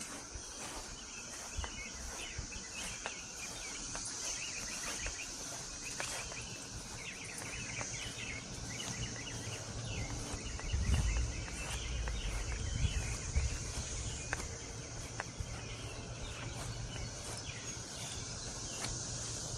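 Cicadas droning in a steady high chorus, with birds chirping over it through the first half and a few low rumbles near the middle.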